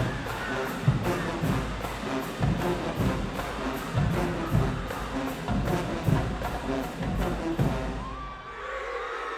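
Marching band playing brass over a drumline, with a steady pulse of bass drum hits, until the music stops about eight seconds in. A crowd starts cheering and whooping near the end.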